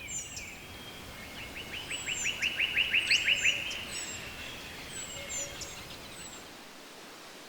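Forest songbirds singing. About two seconds in, one bird gives a rapid trill of about a dozen notes that grows louder and is the loudest sound, while other birds give short high chirps throughout over a low background rumble.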